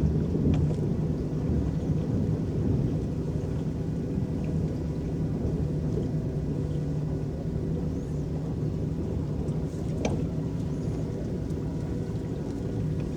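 Electric paddle boat under way: a steady low hum and rumble from its drive, with the paddles churning water.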